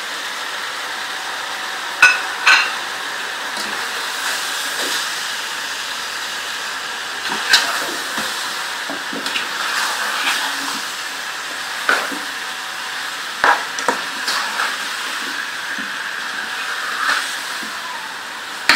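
Chicken pieces and sliced onions frying in a pan with a steady sizzle while being stirred with a spatula. A few sharp knocks and scrapes of the spatula against the pan.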